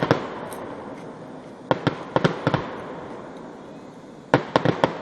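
Fireworks display bursting overhead: three quick volleys of sharp bangs, one at the start, one about two seconds in and one near the end, each a rapid run of several reports.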